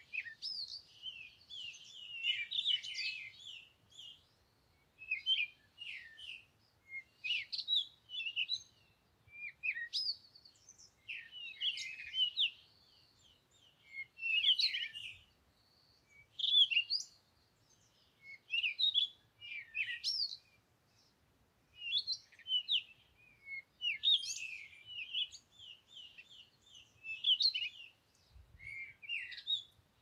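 Small garden birds chirping and twittering in short, high bursts every second or two.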